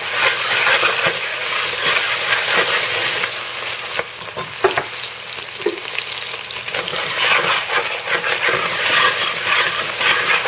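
Whole spices and ginger-garlic paste sizzling in hot oil with fried onion while being stirred in the pot, with a couple of brief knocks about halfway through.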